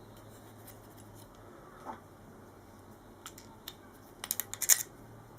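Small metal parts of a TOZ-106 folding-stock latch clicking and tapping as they are worked loose by hand, with a quick run of sharp clicks near the end.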